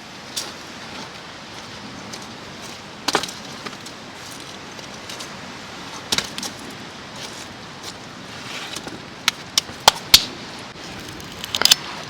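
Scattered sharp clicks and clinks over a steady hiss of rain, with a quick run of four clicks about nine to ten seconds in and a short cluster near the end.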